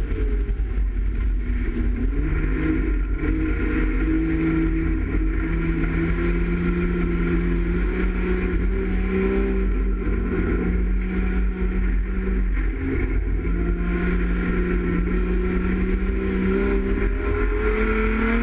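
Dirt-circuit race car's engine running hard, heard from inside the stripped cabin over a heavy deep rumble. Its pitch holds and steps up, drops briefly about two-thirds of the way through as the driver lifts off, then climbs again near the end.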